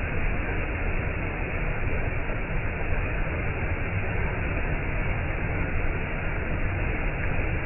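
Waterfall: water falling and splashing in a steady, unbroken rush, deepest and strongest in the low end.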